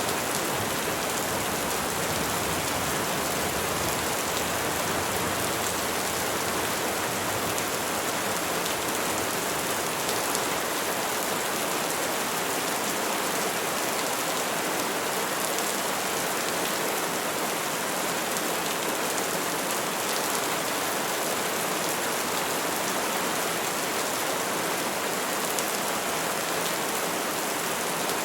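Steady rain falling on trees and foliage, an even hiss of many drops with no thunder.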